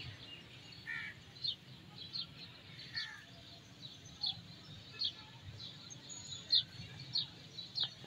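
Small birds chirping: short, high, sharp chirps repeated about once a second, with a few lower notes, over steady low background noise.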